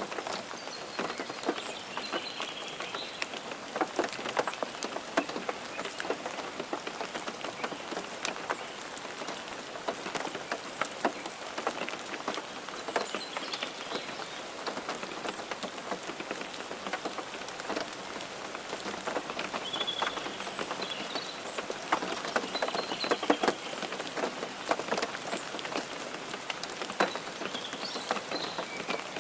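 Steady rain on a car, with many separate drops ticking against the roof and windshield over an even hiss.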